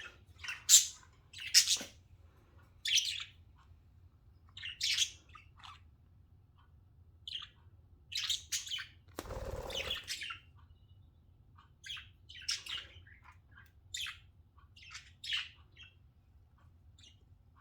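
Pet budgerigars chirping in short, scattered calls, with a rustle lasting about a second near the middle.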